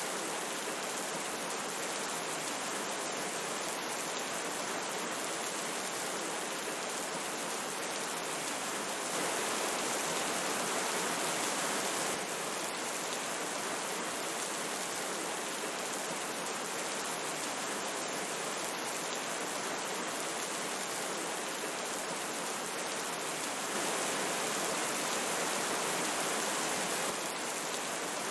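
Steady rushing of a river mixed with falling rain, swelling a little for a few seconds twice.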